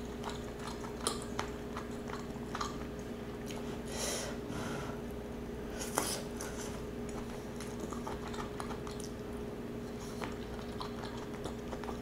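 Close-up chewing of penne pasta: soft wet mouth smacks and small clicks scattered irregularly, over a faint steady hum.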